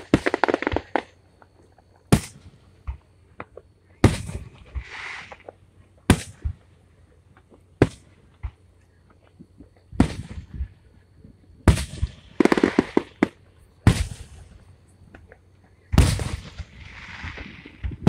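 Aerial firework shells exploding in a steady sequence: about ten sharp booms, one roughly every two seconds. Several are followed by about a second of hissing crackle.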